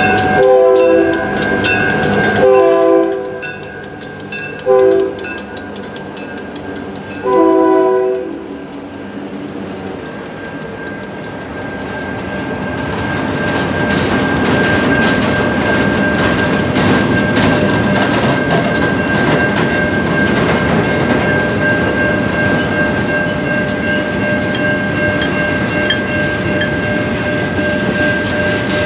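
GP38-2 diesel locomotive horn sounding two long blasts, a short and a long, the grade-crossing signal. Then a long freight train of boxcars and tank cars rolls by with clickety-clack of wheels over rail joints, the rumble building from about ten seconds in, with a steady high whine underneath.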